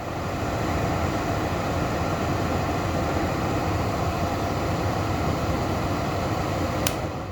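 Ringgrip 250mm centrifugal exhaust fan, cover off, running on its high speed setting: a steady rush of air over a low motor hum that builds up over the first second. A sharp click comes near the end, after which the sound begins to fade.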